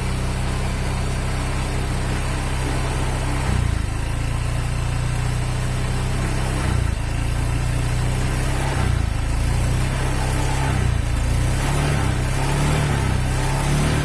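Honda Vario 125 scooter's single-cylinder fuel-injected engine running around idle, its speed stepping up a couple of times and then wavering with small throttle changes. It has a rough running sound, which the uploader puts down to a worn piston gone loose in the cylinder block, giving weak compression.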